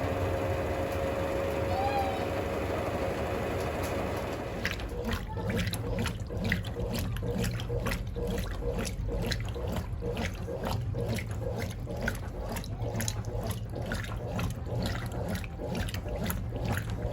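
Brastemp BWC10 top-loading washing machine in its final rinse: a steady rush of water for the first few seconds, then the agitator starts, sloshing the wet laundry with a regular stroke about two to three times a second.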